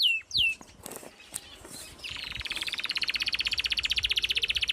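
Bird calls: a couple of sharply falling whistled notes at the start, then from about two seconds in a fast, even trill of about twenty notes a second.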